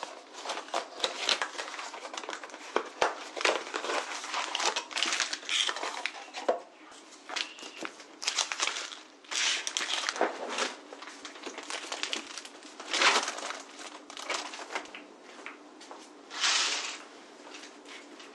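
Close, irregular rustling and crinkling with many small clicks and knocks, as of things and packaging being handled at close range, with a louder rustle near the end.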